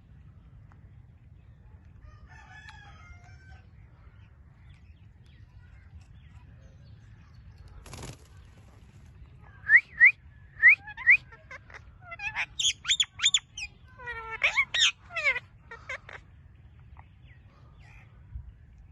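Indian ringneck parrot calling: after a quiet stretch, four short, sharp rising whistles, then a run of loud, rapid calls and chatter, some falling in pitch.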